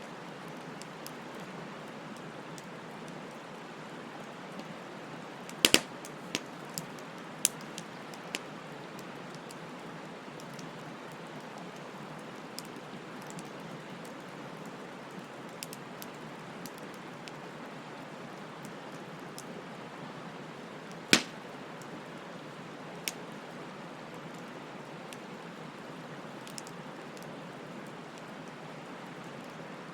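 Wood fire burning with a steady hiss and scattered crackles. Sharp pops stand out: a cluster about six seconds in, and one as loud near the twenty-one-second mark.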